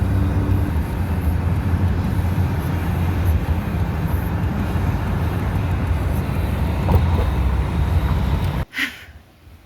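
Low, steady rumble of road and wind noise inside a moving car, cutting off suddenly near the end.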